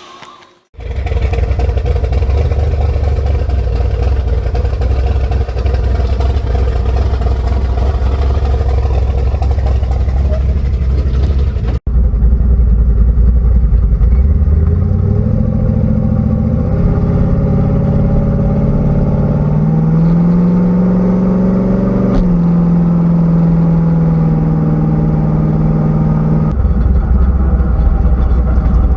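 Car engine running loudly, cut between separate takes. In one, the engine's pitch climbs over several seconds as it revs up, then holds steady.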